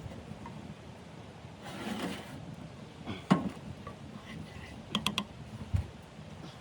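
A few sharp clicks and knocks, the loudest about three seconds in and a quick run of three clicks about five seconds in, followed by a dull thump, over a steady low hiss of wind.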